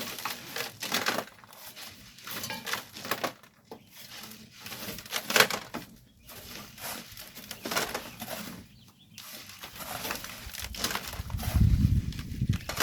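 Hand tools, such as shovels or hoes, scraping and biting into loose volcanic sand and gravel in uneven, gritty strokes. There is a low rumble about a second before the end.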